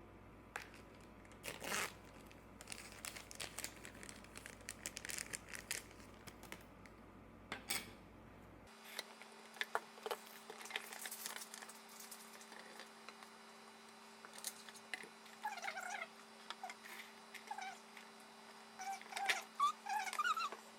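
A cat making short meows and chirps in clusters over the second half, after scattered clicks and handling noises in the first half.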